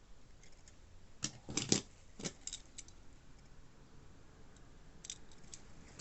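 Small objects being handled by hand: a quick cluster of clicks and rustles about a second in, the loudest near the middle of it, and a few lighter clicks near the end.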